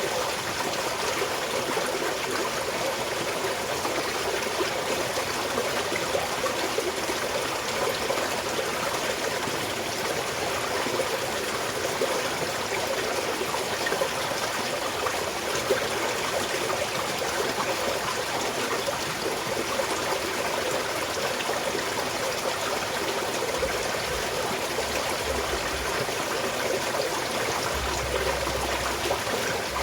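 Small stream of water flowing steadily over stones, a continuous trickling and babbling with no pause.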